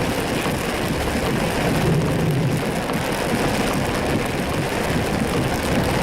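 A car driving through heavy rain, heard from inside the cabin: a steady wash of rain on the car and tyres on the wet road, with the engine humming low underneath.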